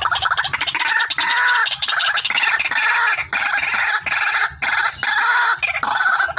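Female white-breasted waterhen (ruak-ruak) calling loudly and continuously: a fast run of harsh, repeated notes in phrases broken by brief pauses, as used as a lure call.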